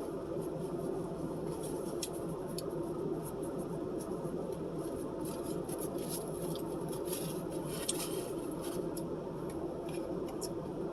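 Steady low hum of room noise, with scattered light clicks and crinkles starting about a second and a half in.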